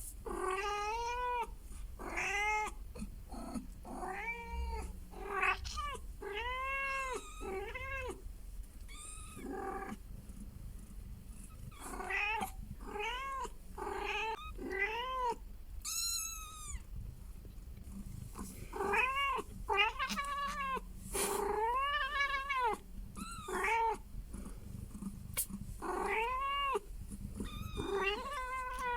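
Scottish chinchilla cats meowing over and over: many short calls that rise and fall in pitch, with a few very high squeaks among them.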